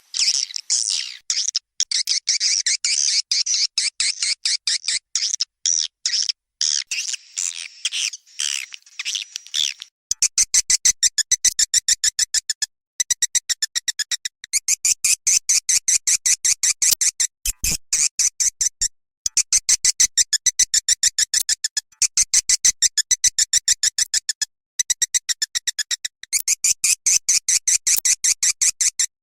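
Swiftlet lure-call recording of edible-nest swiftlet calls, the kind played in swiftlet houses to attract the birds. It opens with dense, high twittering, then about ten seconds in changes to fast, regular trains of sharp clicking chirps, many a second, broken by short pauses.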